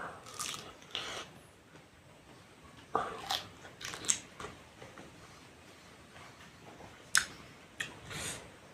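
Close-up biting and chewing of raw food, with a series of sharp, crisp crunches spaced a second or more apart; the loudest bites come just before the middle and about two thirds of the way through.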